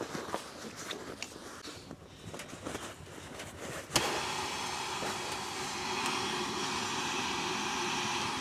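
Soft handling rustles and clicks, then about halfway through a switch click and a small electric air pump starting up and running steadily, a whooshing motor noise, as the air mattresses are deflated for packing.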